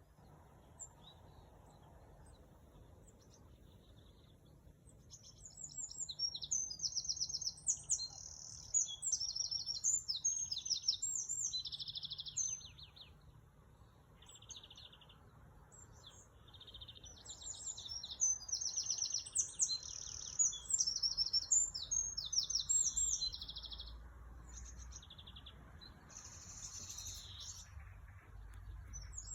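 Birds singing in long bouts of rapid, high trilled notes, one starting about five seconds in and another about eighteen seconds in, with quieter chirps between.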